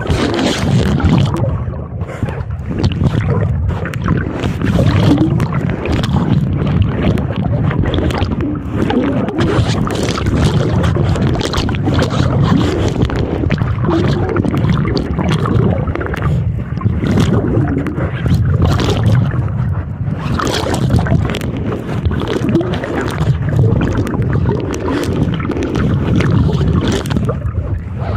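Strong wind buffeting the camera microphone in a constant low rumble, over choppy water splashing, with brief sharper gusts and splashes throughout.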